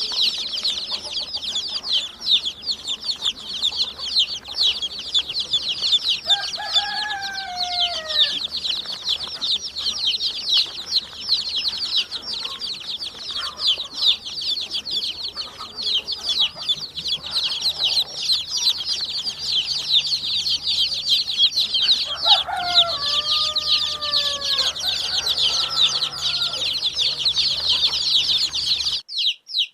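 A flock of domestic chicks peeping continuously in a dense, high-pitched chorus. Lower, falling calls break in twice, about seven seconds in and again near twenty-three seconds, and the sound cuts off abruptly just before the end.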